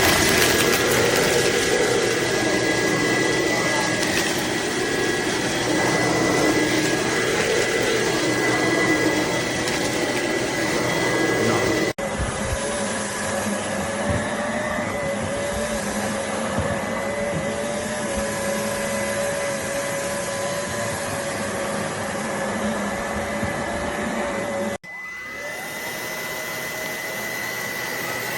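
Roborock H60 Ultra cordless stick vacuum running steadily, its motor giving an even rushing hum with a constant high whine. The sound cuts abruptly about 12 seconds in and again near the end, where it resumes at a lower level.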